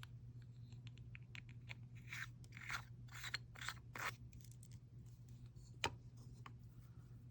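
Small plastic packaging crinkling and rustling as it is handled for about two seconds, then a single sharp click, over a steady low hum.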